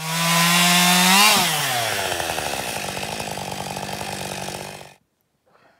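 An engine running fast, rising a little in pitch about a second in, then falling back to a lower, uneven idle before cutting off suddenly near the end.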